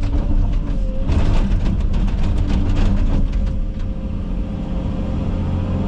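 Komatsu 360 excavator's diesel engine running steadily under work, with brush and branches cracking and snapping as it clears for the first three seconds or so, then mostly engine alone.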